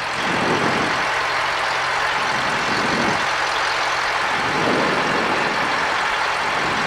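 Cessna 172 engine and cabin noise, a steady drone with a constant low hum underneath.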